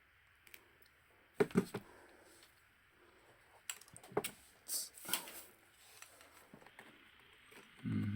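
Irregular small clicks and taps of hand tools such as pliers and a screwdriver working on a camera's small parts during disassembly, in a few short clusters.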